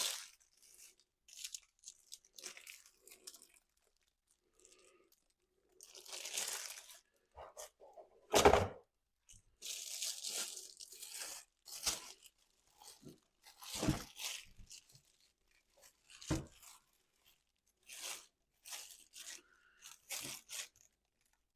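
Intermittent handling noises from engine parts and tools being worked on: scrapes and rustles with pauses, and a few sharp knocks, the loudest about eight seconds in.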